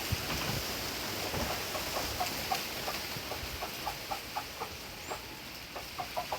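A bird's short clucking calls, repeated in an uneven run of several notes a second over a steady background hiss.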